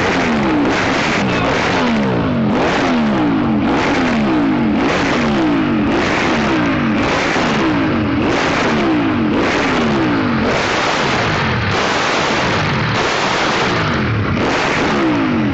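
Ducati 1198S V-twin engine with a Termignoni exhaust, revved hard again and again against the rev limiter. The pitch climbs and drops over and over, about once a second.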